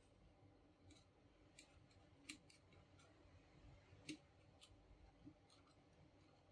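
Near silence with a few faint, sharp clicks, the loudest about two and four seconds in.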